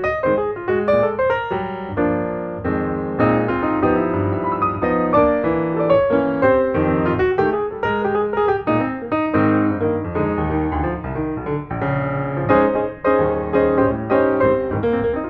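Piano music with quick, continuous notes.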